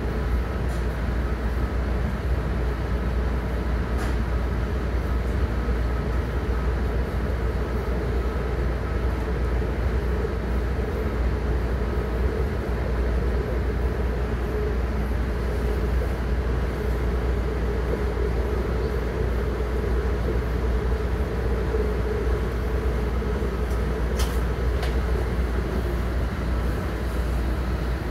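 Steady rumble of a MARC commuter train running along the track, heard from inside a passenger car, with a couple of faint clicks.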